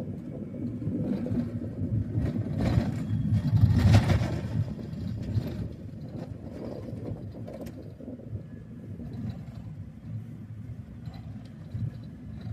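Car on the road: steady engine and tyre rumble, swelling louder about two to four seconds in, then settling back.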